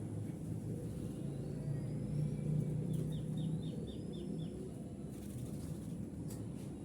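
Outdoor background of a low, steady rumble that swells for a second or two about two seconds in. Over it come faint high chirps from small birds and a short, rapid trill of about seven notes.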